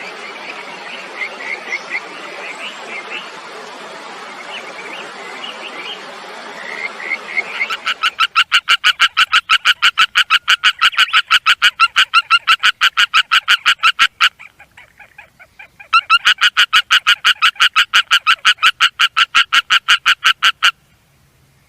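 Frogs calling: a chorus of short chirps over background noise, then one loud frog giving a fast, evenly pulsed call of about seven pulses a second in two long bouts with a short pause between, stopping abruptly near the end.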